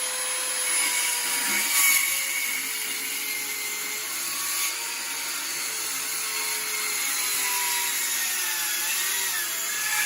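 Electric power tool motor running steadily under load, a whine that drifts slowly in pitch over a wide hiss.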